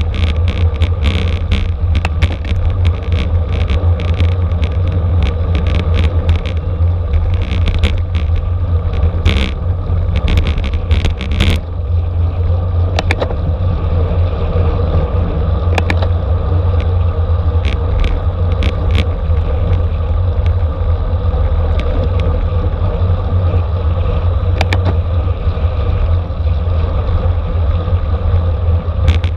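Steady rush of wind and road rumble from a racing bicycle at speed in a criterium, with scattered sharp clicks and rattles, thickest in the first dozen seconds.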